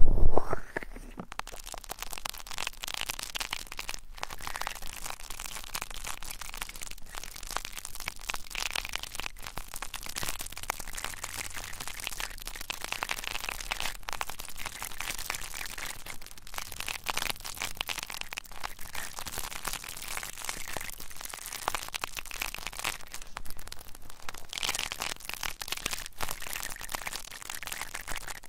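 Close-up ASMR trigger sounds on the ears of a 3Dio binaural microphone: a continuous, dense fine crackling and scratching with many small ticks.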